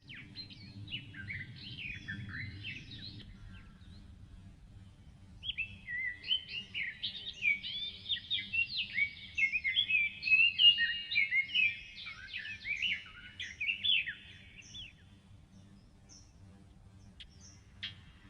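Small birds chirping and twittering in quick, overlapping notes, scattered at first, then a busy stretch of dense twittering from about five to fifteen seconds in, then a few sharp chirps near the end.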